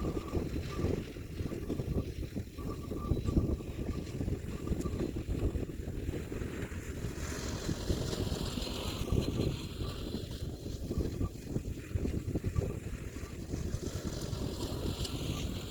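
Kioti DK4710SE diesel tractor engine running steadily while working, with wind buffeting the microphone.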